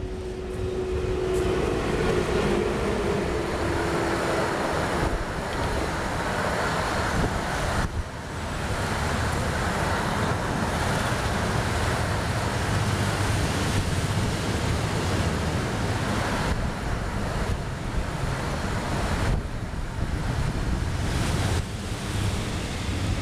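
Rolling-highway freight train hauled by an ÖBB Taurus electric locomotive passing close by: a loud, steady rumble and rush of wagons over the rails. A humming tone from the locomotive fades over the first few seconds.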